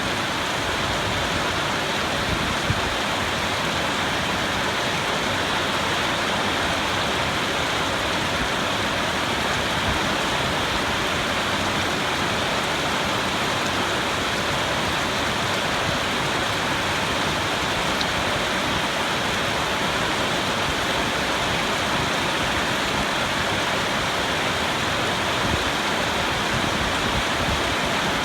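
Steady rain falling, an even hiss that does not let up, with no thunder. One small tick comes about three seconds in.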